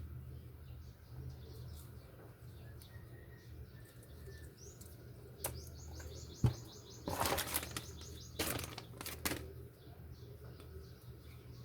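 Rustling and a few sharp clicks from packaging being handled, in two bursts in the middle. Under them a fast, high-pitched pulsing trill lasts a few seconds, all over a steady low hum.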